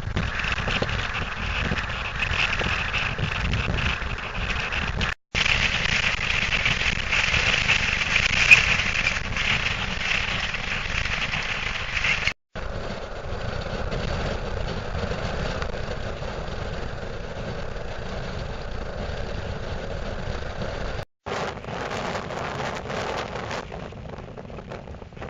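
Strong wind rushing and buffeting the microphone, cut off by three brief silent gaps where separate clips are joined, with one short sharp knock about eight and a half seconds in.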